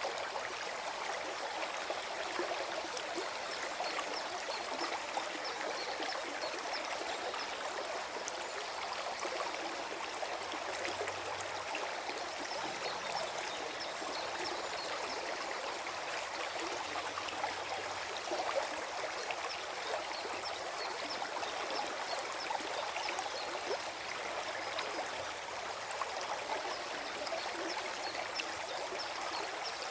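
Small forest stream flowing and gurgling over stones, a steady rush of water with many small trickling splashes.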